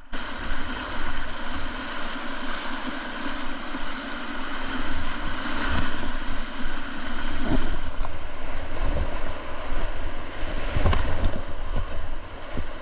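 River water rushing around a kayak at high flow, with wind buffeting the microphone. A few short knocks or splashes, most likely paddle strokes, stand out around six, seven and eleven seconds in.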